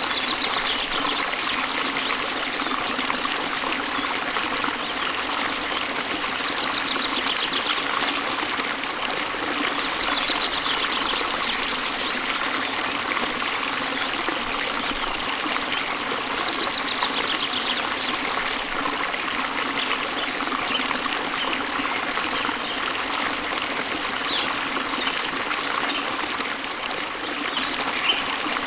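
Waterfall water rushing and splashing steadily, with faint trilling birdsong recurring every few seconds.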